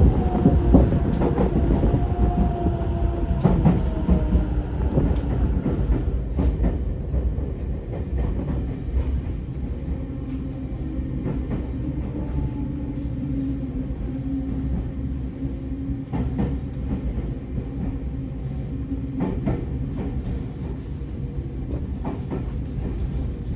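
Tokyo Metro 05 series train's Mitsubishi IGBT-VVVF inverter whining in a falling pitch under braking, over the rumble and clicks of the wheels on the rails. The sound quietens after about six seconds as the train slows, and a steady low hum with occasional clicks remains.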